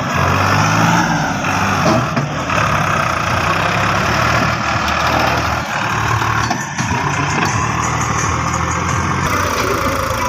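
Sonalika DI 734 tractor's diesel engine running steadily.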